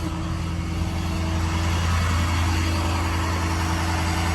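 Ford 6.7L Power Stroke V8 diesel engine running steadily with the PTO engaged for the hydraulic dump. Its sound builds over the first couple of seconds, then holds.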